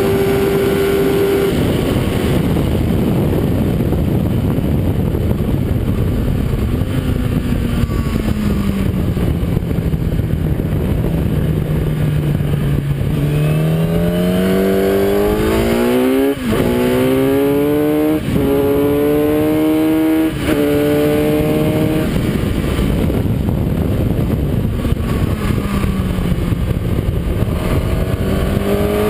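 Kawasaki ZX-10R inline-four engine on track, heard from the bike. The revs sink as it slows, then climb hard through three quick upshifts about two seconds apart, then drop off again and begin rising near the end, all under heavy wind rush.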